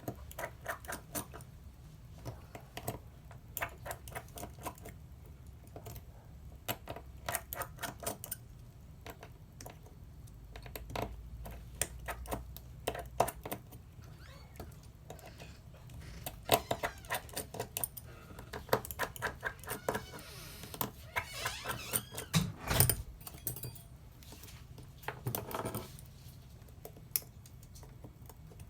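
Irregular light clicks and small taps of hand tools and parts being handled during a phone repair, with a busier stretch of scraping and clicking about two-thirds through and one louder knock in it.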